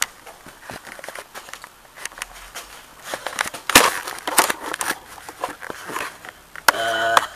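Handling noise as a camera is propped up and positioned: scattered clicks, rustles and knocks right at the microphone, the loudest knock about four seconds in. Near the end comes a short hummed voice sound.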